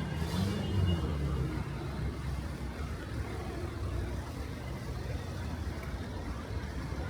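Street traffic on a wet road: a motor vehicle's engine rises and falls in pitch in the first second, over a steady hiss of traffic and rain.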